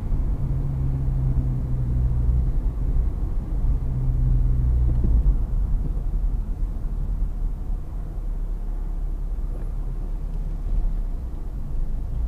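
A 2013 Honda Civic Si's 2.4-litre four-cylinder engine and road noise, heard from inside the cabin while driving slowly. A steady engine drone fades out about five seconds in, leaving a low rumble.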